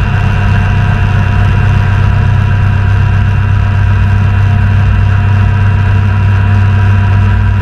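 Kaman HH-43 Huskie helicopter running: a loud, steady drone with a deep hum and several steady higher whining tones over it.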